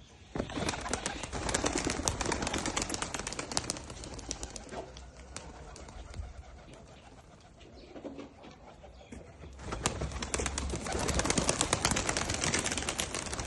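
Domestic pigeons cooing, under two long bursts of dense fluttering clatter: one from about half a second in, and another from about ten seconds in.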